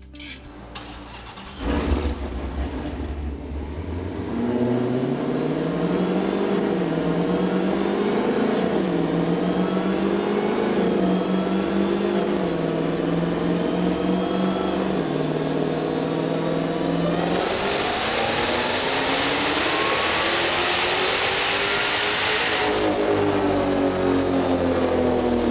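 1,000-horsepower Dodge Challenger engine on straight-pipe exhaust, starting up about two seconds in and revving up and down in steps. Near the end comes a wide-open dyno pull of about five seconds, then the revs fall away.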